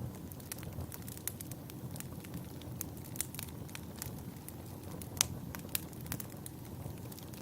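Wood fire in a fireplace crackling: irregular sharp pops and snaps over the low, steady rush of the flames, with the loudest pop about five seconds in.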